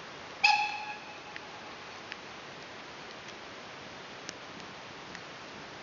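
Steady hiss of rain with scattered faint ticks. About half a second in, a single short, high ringing tone sounds once and fades quickly.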